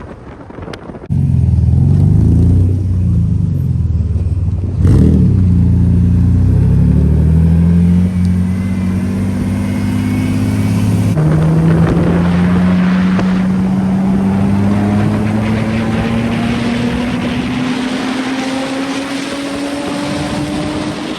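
BMW E36 M3 inline-six running through its straight 3-inch exhaust with Vibrant muffler, coming in loudly about a second in, then pulling with its pitch rising steadily over the last ten seconds as the car accelerates.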